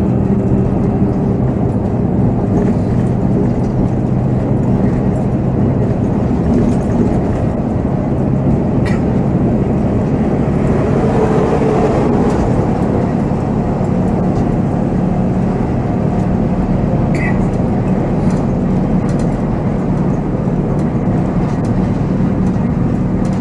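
Volvo B7R coach's diesel engine running while driving, with road noise, heard from the driver's cab. The steady engine hum fades for several seconds in the middle and then comes back.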